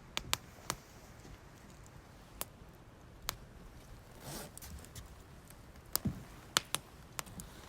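Wood campfire crackling: irregular sharp pops and snaps over a faint steady hiss, with a short soft rush of noise about four seconds in.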